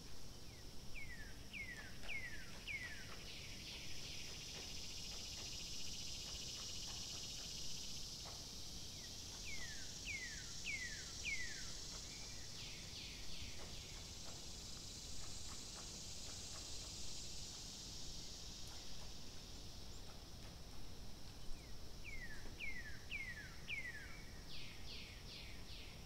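A songbird repeating a phrase of four descending whistles followed by a quick run of short high notes, about every eleven seconds, over a steady high insect hiss.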